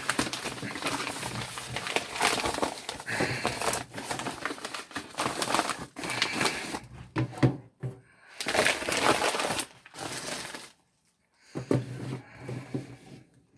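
Packaging being handled and opened: repeated crinkling and rustling, in two stretches with a short pause between.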